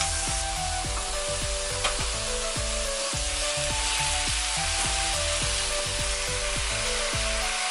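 Food sizzling as it fries in a hot pan, a steady hiss, with background music playing over it.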